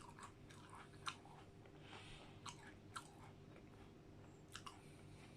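Faint close-up chewing of ice cream mixed with digestive biscuits, with several short sharp crunches or mouth clicks, the loudest about a second in.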